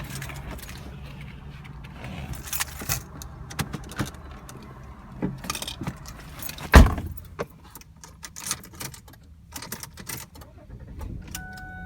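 Keys jangling and clicking in irregular bursts, with one loud thump about seven seconds in.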